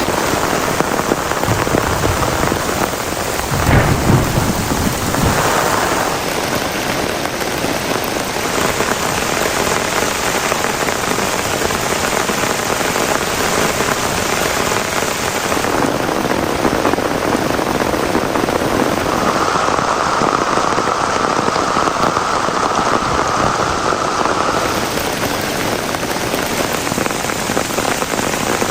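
Heavy rain falling steadily, with a rumble of thunder about four seconds in.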